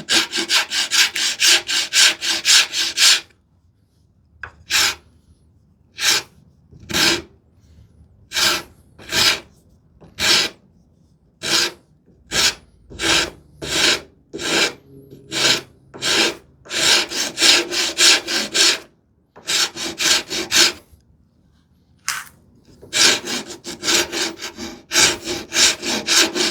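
Hand rasp filing the sawn curve of a small wooden piece: rasping strokes, in runs of quick back-and-forth strokes broken by pauses and slower single strokes about a second apart.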